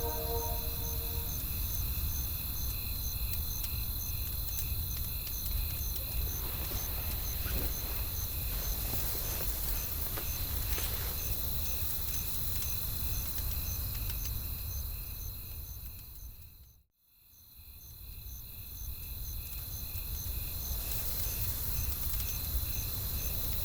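Crickets chirping in an even rhythm, about two chirps a second, over a steady low rumble of wind with faint crackles of a fire. The ambience dips to silence about 17 seconds in and fades back up.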